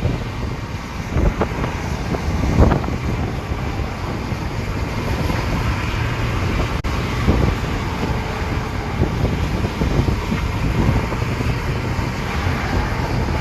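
Steady rumble and wind noise of a moving vehicle, with a few short knocks.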